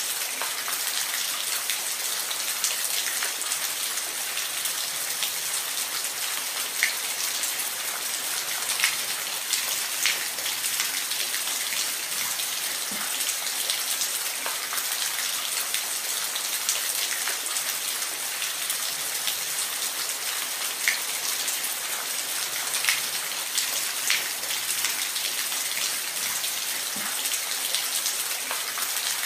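Steady rain with close, distinct drops striking a surface, heard as a continuous hiss with scattered sharper drips.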